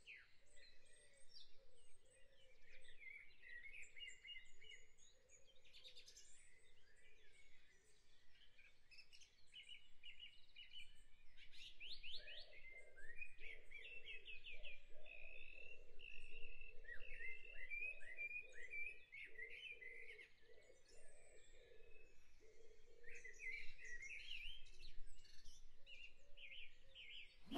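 Faint birds chirping and trilling in many short, quick calls, with no voice.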